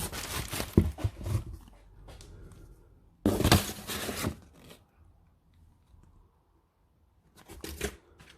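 Cardboard box being opened and its packing handled: rustling and scraping in bursts, the loudest about three seconds in, with quiet pauses between.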